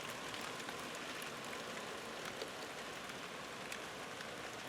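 Light rain shower falling, a steady soft hiss with scattered individual drops pattering on surfaces.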